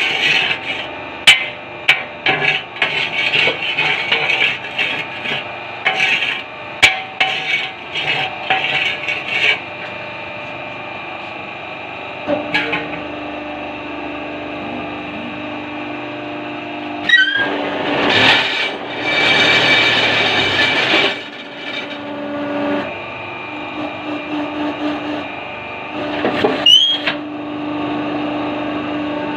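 Concrete paving-block moulding work: a quick run of knocks and clatter from the mould and concrete for the first several seconds, then a machine running with a steady hum and a louder noisy stretch partway through.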